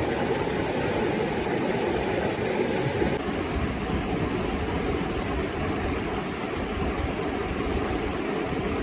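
Steady rushing roar of a waterfall, a constant wash of water noise with no let-up.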